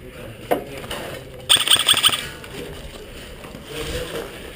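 A short burst of airsoft rifle fire, a rapid string of sharp clicks lasting about half a second, about a second and a half in. A single sharp knock comes just before it.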